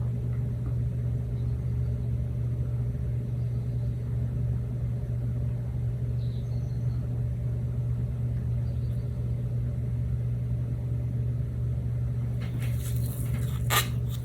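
A steady low mechanical hum, with a few light knocks and handling noises near the end.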